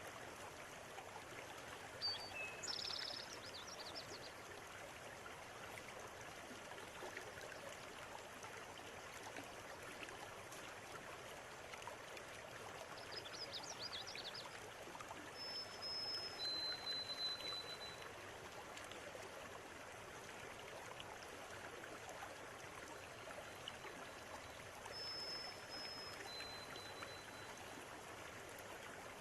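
River water running steadily, with birds calling now and then: a burst of chirps a couple of seconds in and another near the middle, and twice a pair of short whistled notes on a level pitch.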